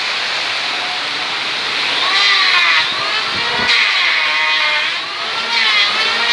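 Strong gusting wind rushing past. From about two seconds in, wavering howling tones rise and fall in pitch over it.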